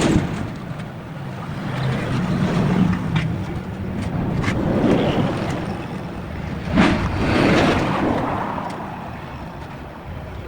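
Road traffic: several vehicles pass one after another, each a swell of noise that rises and falls, over a low steady engine rumble.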